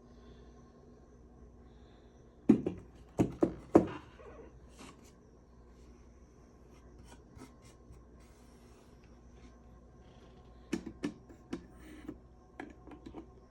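Sharp knocks and clicks of hard objects being handled: four loud ones close together about two and a half seconds in, then a quicker run of lighter clicks near the end.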